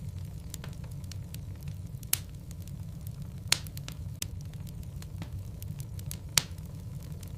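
Logs burning in a fireplace: a steady low rumble of the flames with frequent small crackles and three louder pops, about two, three and a half and six seconds in.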